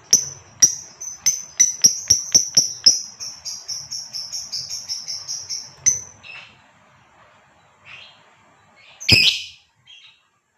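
Female lovebird calling: a run of sharp, high chirps that quickens into a fast chatter for about six seconds, then breaks off into a few softer calls and one loud harsh call near the end.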